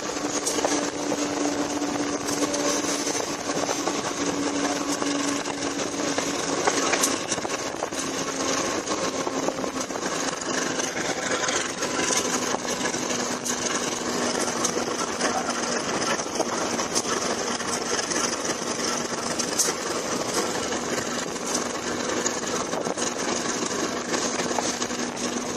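Running noise of a moving train heard from a window inside the carriage: a steady rumble and hiss of wheels and air, with a steady drone that drops slightly in pitch about seven seconds in and occasional clicks.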